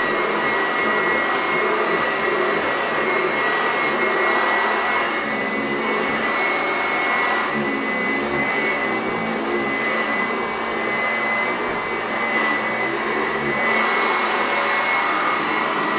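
Sanitaire commercial upright vacuum running steadily with a high whine as it is worked over carpeted stair steps, its strong airflow drawing dust up through the carpet.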